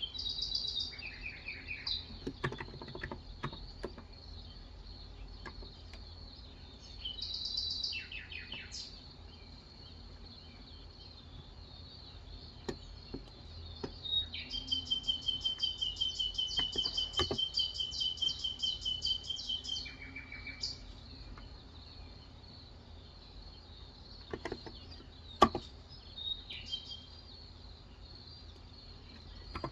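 Birds chirping, with a long rapid trill in the middle, over a few scattered keystrokes on a Cox Endeavor 35g electrostatic-capacitive keyboard; one sharp keystroke near the end is the loudest sound.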